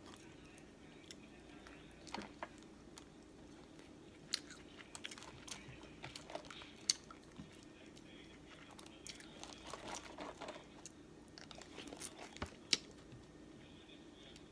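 Seafood being eaten close to the microphone: chewing and smacking with scattered sharp clicks and cracks of shell.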